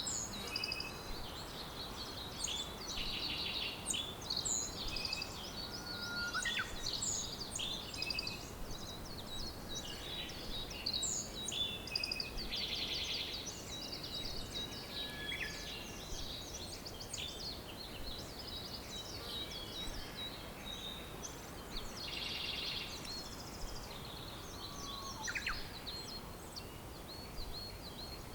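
Several wild birds singing and chirping at once: short high chirps, brief whistles and a few dense buzzy trills overlapping, over a steady background hiss.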